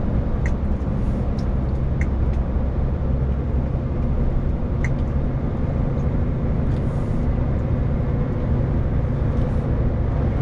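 Heavy lorry's diesel engine running steadily under way, heard from inside the cab, with low road and tyre noise and a few faint, irregular clicks.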